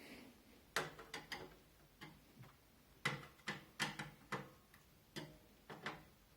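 Sharp clicking in short runs of two to four clicks, as a screw is turned by hand to tighten a case fan into a Zalman Z11 Neo computer case.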